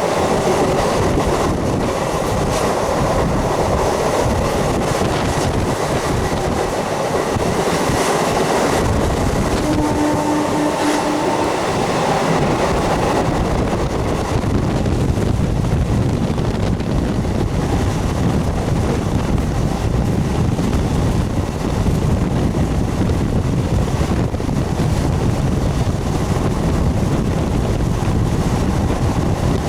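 MEMU electric multiple-unit train running steadily along the track, with continuous rail noise and clatter of the carriages in motion.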